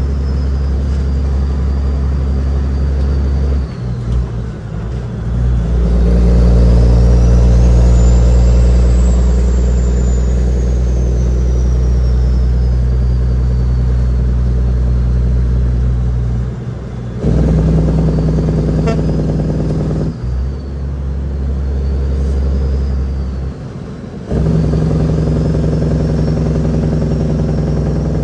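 Caterpillar 6NZ inline-six diesel in a Kenworth W900L pulling hard under a heavy load. Its note drops off briefly about four times and comes back each time, as between gear changes. A thin high whistle rises and falls over it.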